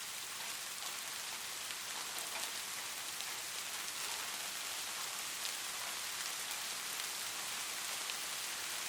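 Light rain falling steadily: an even hiss with many small drop ticks.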